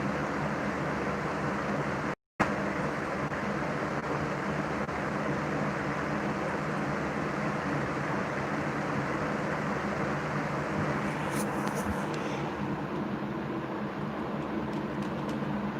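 Steady mechanical hum and hiss with several low droning tones. The sound cuts out completely for a moment about two seconds in, and a few faint clicks come near the end.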